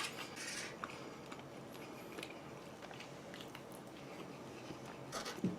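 Faint chewing and small mouth sounds from a person eating, with a few soft clicks.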